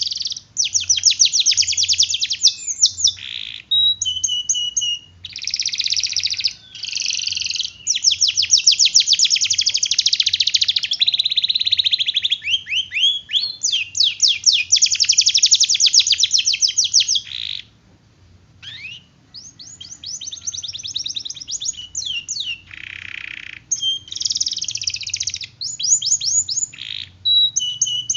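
Domestic canary singing in long, rapid rolling trills: fast runs of repeated high notes strung into phrases with short breaks, and a longer pause about two-thirds of the way through.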